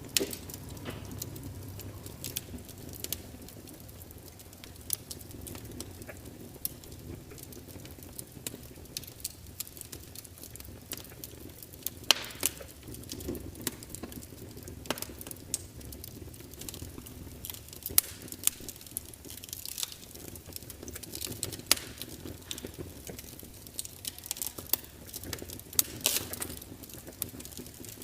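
Log fire burning in a fireplace, crackling with irregular sharp pops and snaps over a low, steady rumble of flame; a few louder snaps stand out, about halfway through, again a few seconds later, and near the end.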